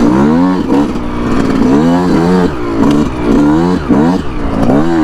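2019 Yamaha YZ125's single-cylinder two-stroke engine being ridden, its revs rising and falling several times as the throttle is worked.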